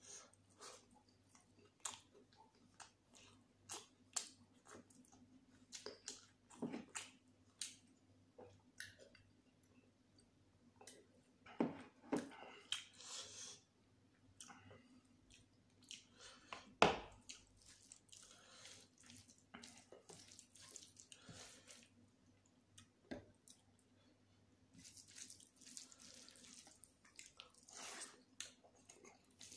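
Close-miked chewing and wet mouth sounds of a person eating chicken biryani with gravy and raita: irregular smacks and clicks, with one sharper smack about 17 seconds in.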